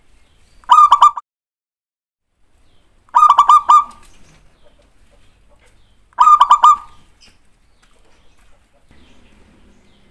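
Zebra dove (perkutut) cooing three times, each call a quick run of rippling notes, about three seconds apart. It is a recorded perkutut call used as a lure to set other perkutut calling.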